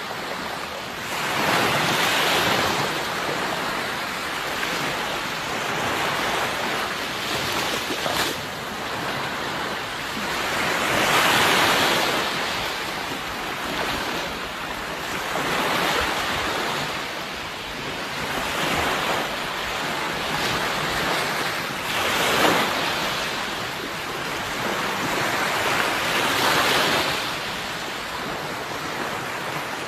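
Sea waves breaking and washing in on a shore in a steady surge, each wave swelling and fading every few seconds.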